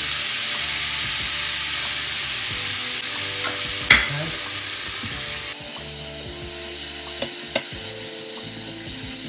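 Minced pork and chopped vegetables sizzling in a hot frying pan while a spatula stirs them, with a few sharp knocks of the spatula against the pan, the loudest just before four seconds in. The sizzle eases a little about halfway through.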